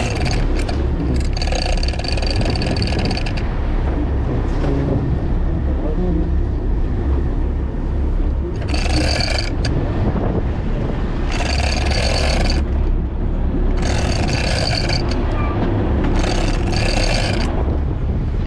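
Fishing boat's engine running steadily with a deep, continuous drone. Every few seconds a short, higher-pitched buzzing sound of a second or two rises over it.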